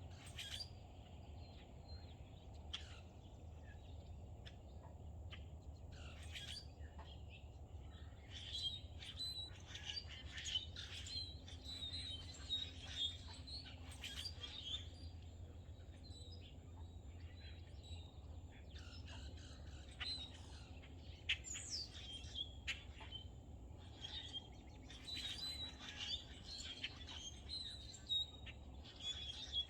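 Several songbirds chirping and twittering, with many short calls overlapping, over a steady low hum.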